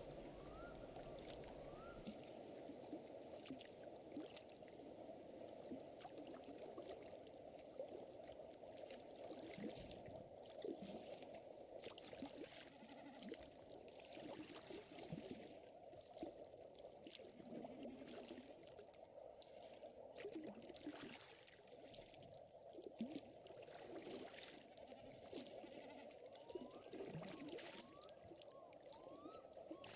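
Faint crackling fire with scattered small pops over a steady gentle trickle of water. A few short rising chirps come near the start and again near the end.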